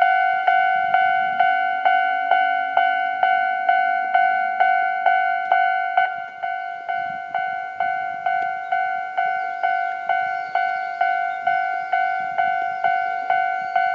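Japanese railway level-crossing warning bell ringing steadily, about two strikes a second.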